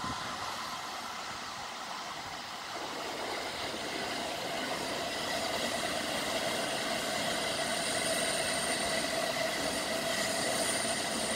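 Electric commuter train running past at a distance, a steady rumble that slowly grows louder, with a faint steady whine riding on it.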